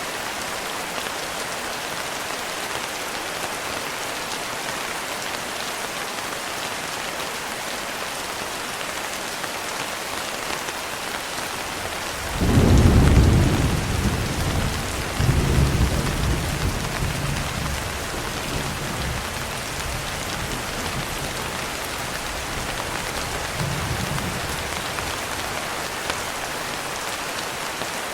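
Steady heavy rain, with a sudden loud thunderclap about halfway through that rolls on in low rumbles for several seconds before fading; a fainter rumble of thunder follows near the end.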